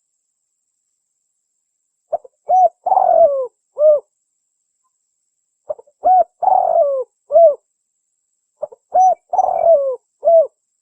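Spotted dove (tekukur) cooing: three call phrases a few seconds apart, each a couple of short notes, a longer rough note that falls away, and a final coo.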